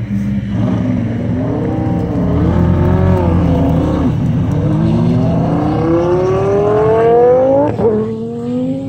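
A high-performance car launching from a standstill and accelerating hard. The engine pitch wavers and climbs as it pulls away, drops briefly about four seconds in at a gear change, then climbs steadily for several seconds before dropping sharply near the end at the next shift.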